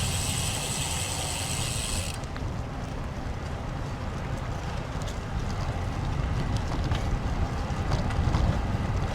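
Wind buffeting a helmet or bike-mounted action-camera microphone while a road bike is ridden into a strong headwind, a steady rumbling rush. A high hiss cuts off suddenly about two seconds in.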